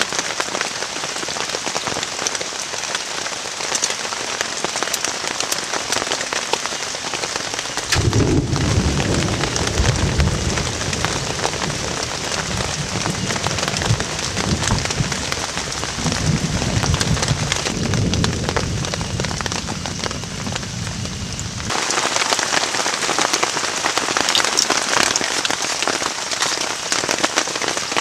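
Heavy rain falling steadily. From about eight seconds in, a deep rolling rumble of thunder comes and goes for roughly fourteen seconds before cutting off.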